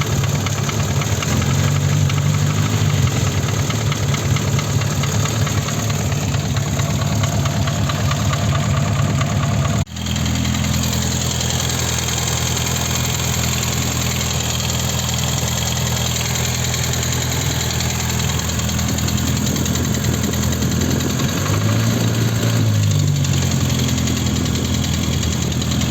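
VAZ-21083 four-cylinder petrol engine idling with a ringing tick, which the owner takes for a worn piston pin in cylinder 1, the cylinder with low compression. The tick is there whether the engine is cold or warm, and a double valve adjustment has not cured it.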